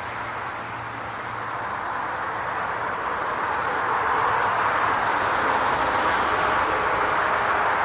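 Jet airliner engine noise, a broad rushing sound that grows louder over the first few seconds and then holds steady.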